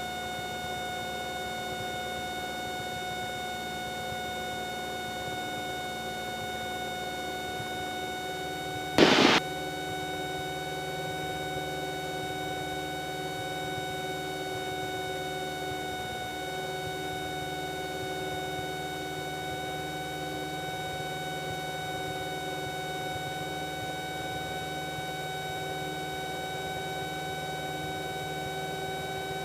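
Cessna 172's engine and propeller droning steadily at climb power, heard through the headset intercom. A short, loud burst of noise about nine seconds in.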